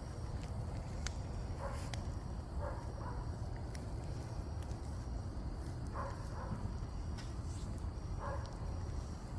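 A burning dishwasher crackling and popping with sharp irregular snaps over a steady low rumble, while a dog barks several times.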